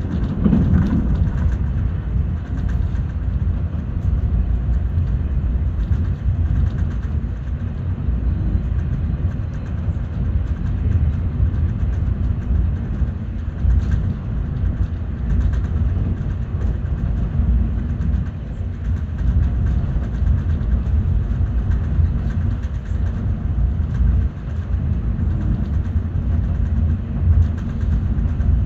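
Saudi Railway Organization train passing, a steady loud low rumble of the cars running on the rails.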